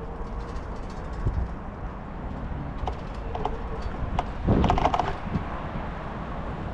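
Bicycle ride noise: a steady low rumble of wind and road, with scattered light clicks and rattles and a louder clatter about four and a half seconds in.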